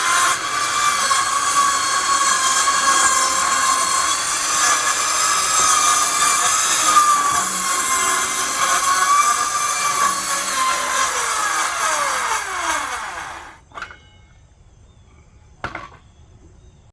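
Power saw running and cutting during deck demolition, its motor pitch wavering under load. About eleven seconds in it is released and winds down to a stop, followed by two sharp clicks.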